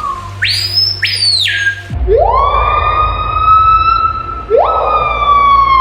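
Screaming piha calling: two short upswept whistles, then two long, very loud ringing whistles that each swoop sharply upward and hold, the last dropping away at its end.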